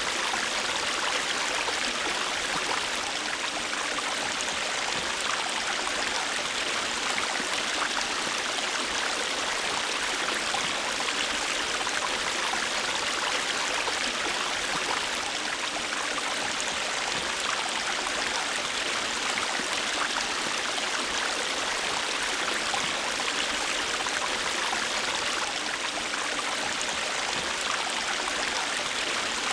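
A river or stream running steadily over rocks, a continuous rushing with fine splashing and gurgling.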